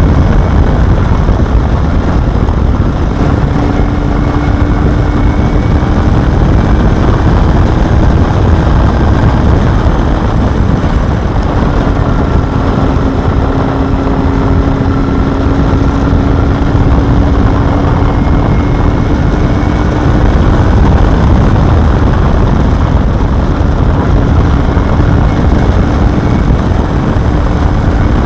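Honda Hornet 250 motorcycle's inline-four engine running steadily, with a faint held engine note under a loud, even rush of noise. The exhaust ports have been chamfered for smoother revving at high rpm.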